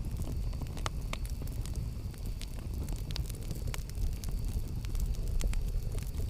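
Campfire burning, with a steady low rumble under scattered sharp crackles and pops.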